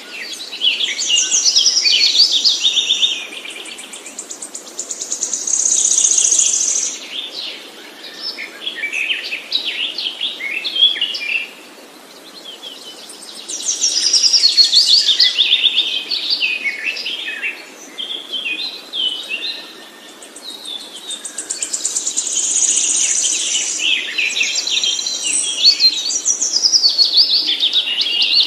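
Songbird singing in long, fast bouts of high trills and warbles, several seconds each, separated by short lulls.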